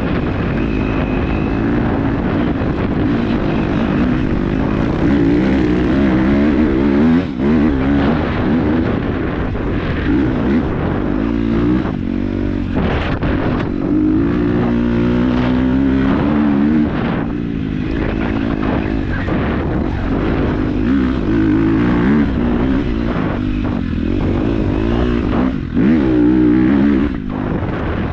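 KTM 250 dirt bike engine riding a trail, its pitch rising and falling again and again as the throttle is worked, with a few sharp knocks along the way.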